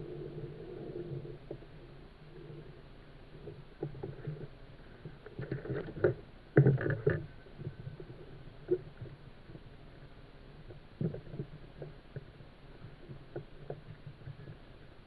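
Knocks and clatter aboard a pedal kayak, over a low hum that fades in the first couple of seconds. The loudest cluster of knocks comes about six to seven seconds in, with a few single knocks later.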